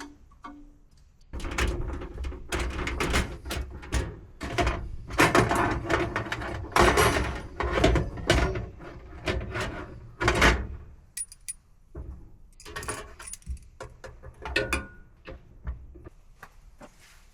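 Irregular clattering, knocking and scraping of objects being handled, busiest in the first part and thinning out later.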